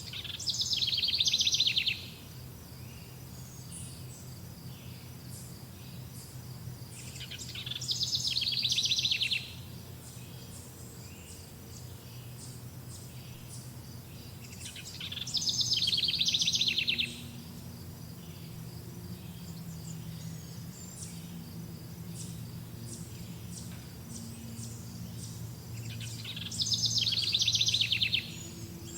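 A bird repeating a fast, trilled song four times, each trill about two seconds long, swelling and then stopping short. Behind it runs a steady high insect chirring and a low hum.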